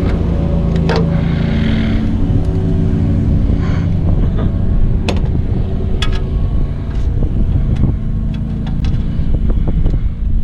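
A motor running steadily with a low hum throughout, with scattered sharp clicks and knocks.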